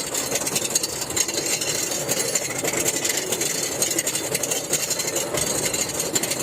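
RMC hybrid roller coaster's lift-hill chain hauling the train up, a steady mechanical rattle made of rapid clicks.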